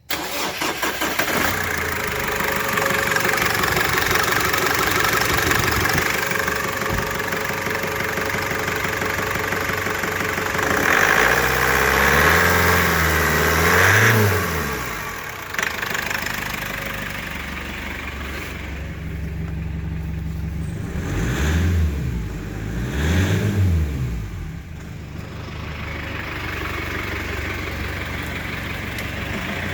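A 2013 Foton Tunland's 2.8-litre turbo-diesel engine running on test. It idles, is revved up and back down from about 11 to 14 seconds in, settles to a lower idle, then gets two short rev blips around 21 and 23 seconds before idling again. It runs cleanly, an engine that tested good.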